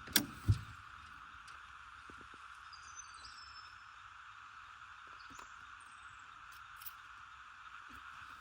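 Two sharp knocks just after the start, then a steady, quiet drone of insects with a few faint high chirps.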